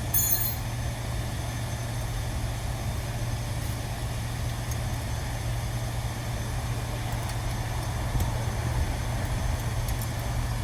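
A steady low machine hum, like an engine or motor running, with a brief sharp clink just after the start.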